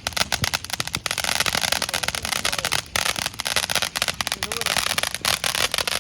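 Fireworks crackling: a rapid, dense run of sharp cracks, many each second, with short breaks about a second in and near three seconds.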